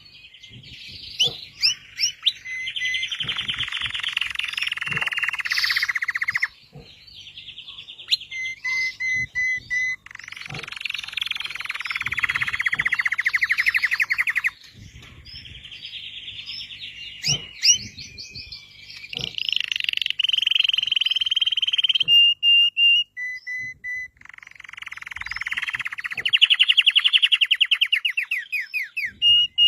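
Red canary singing: long phrases of fast rolling trills and repeated chirps, broken by short pauses.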